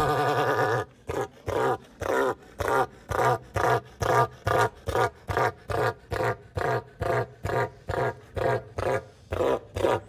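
Southern cassowary calling: one long deep rumbling call, then a steady run of about two dozen short booming pulses, nearly three a second.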